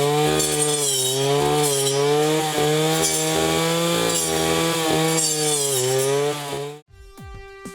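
Brush cutter engine running at high speed with a circular blade, its pitch dipping and recovering over and over as the blade bites through stems, over a rasping cutting noise. It cuts off abruptly near the end, and plucked guitar music begins.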